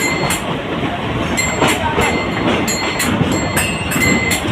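A train passing along the platform, wheels clattering over rail joints with irregular knocks and brief high wheel squeals.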